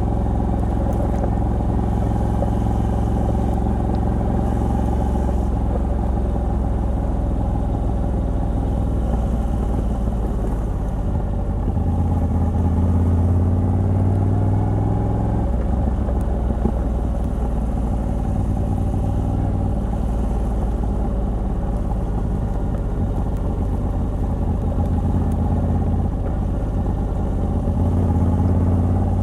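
Moto Guzzi V85TT's air-cooled transverse V-twin running under way through the stock exhaust fitted with a Mistral decat. The engine note grows louder about twelve seconds in, changes about three seconds later, and grows louder again near the end.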